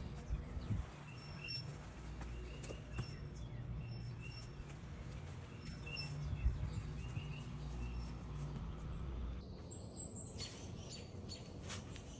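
Small birds chirping in short repeated notes over a steady low rumble, with a higher, brighter chirp and quicker calls near the end.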